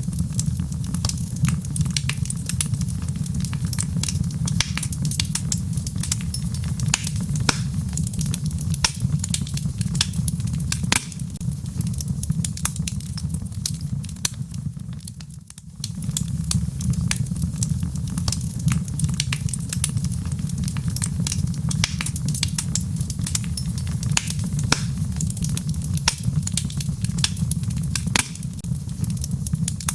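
Log fire burning in a fireplace: a steady low rumble of flame with constant sharp crackles and pops from the burning wood. The rumble drops away briefly about halfway through, then returns.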